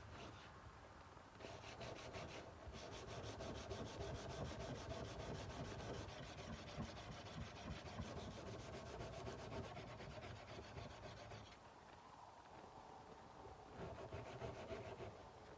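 Hand sanding a steel kukri blade: abrasive paper rubbed back and forth over the metal in quick, even strokes. The strokes ease off about three quarters of the way through and pick up again near the end.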